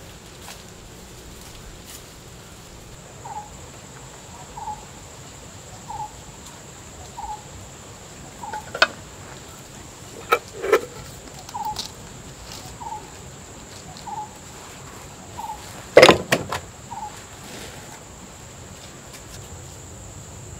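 A bird calls the same short note over and over, about once every 1.3 seconds, over a steady high-pitched insect drone. A few sharp clinks and knocks from a spoon and glass jam jars being handled come through, the loudest about three-quarters of the way in.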